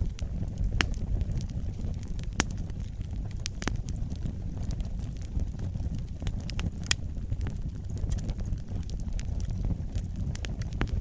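Fireplace fire burning: a steady low rumble of flames with sharp crackles and pops at irregular intervals.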